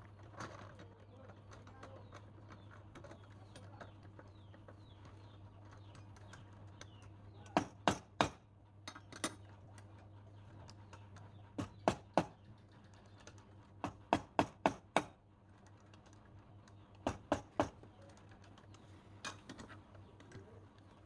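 Sharp taps or knocks in short clusters of two to four, every few seconds, over a steady low hum.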